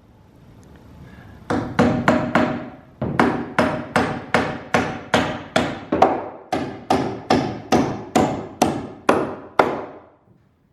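Hammer blows driving into wooden blocking between attic floor joists: four quick strikes, a short pause, then a long steady run of blows at about two and a half a second, each with a short ring, stopping just before the end.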